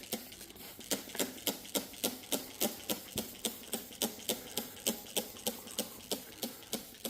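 Trigger sprayer squeezed over and over, short sprays about three to four a second in an even rhythm, starting about a second in: post-treatment being misted onto carpet stains.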